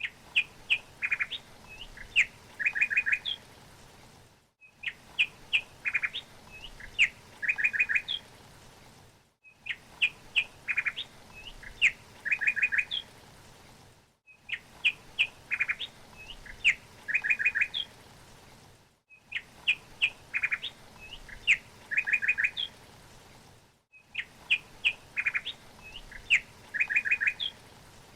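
Small bird chirping: a short phrase of sharp chirps and quick trills, repeated identically about every five seconds with a brief gap of silence between repeats, as in a looped recording.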